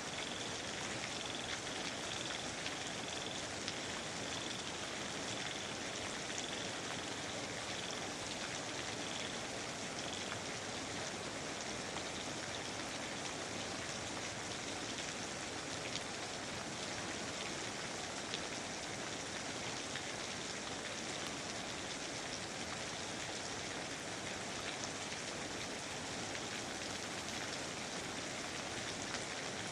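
Steady rainfall in a rainforest, a dense even patter of drops with scattered individual drip clicks. A high repeated call pulses about twice a second and stops about ten seconds in.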